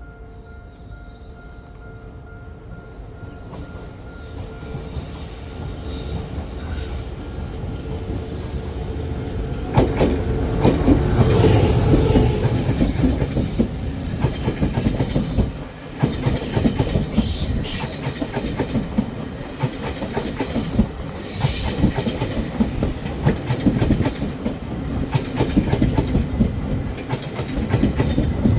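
Taiwan Railway train approaching and passing close by, growing louder over the first ten seconds into a sustained rumble of wheels on rail with clickety-clack over the rail joints and high metallic wheel squeals.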